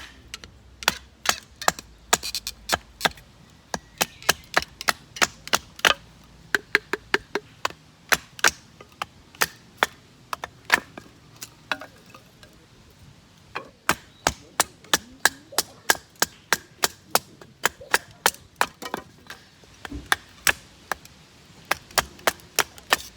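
Small firewood being split into kindling for a little wood stove: a long run of sharp wooden knocks, about three a second, with a short pause about twelve seconds in.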